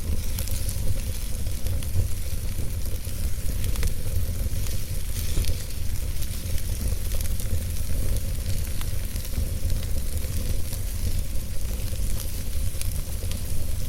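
Wood fire in a fireplace burning steadily, with a constant low rumble and hiss and many small crackles and pops from the burning logs.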